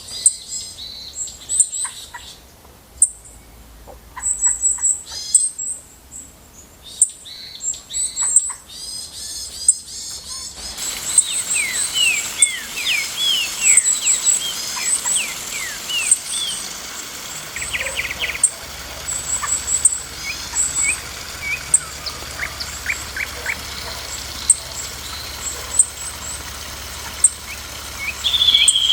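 Wild birds chirping and calling: many short, high chirps throughout, joined about a third of the way in by quick sweeping whistles.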